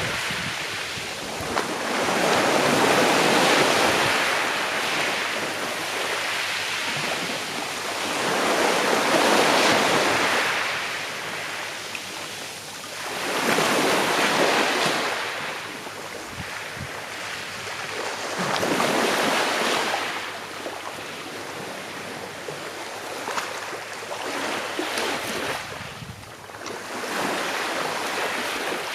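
Calm sea waves washing onto the shore, each wave swelling and ebbing about every five seconds.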